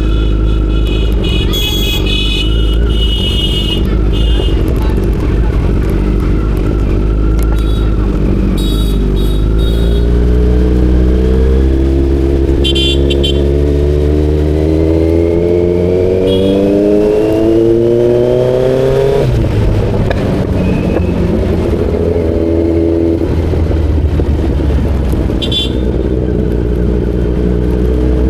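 Kawasaki Z900's inline-four engine running on the move, its pitch climbing steadily for several seconds under acceleration, then dropping suddenly about two-thirds of the way through before running steady again. Short high-pitched beeps come and go.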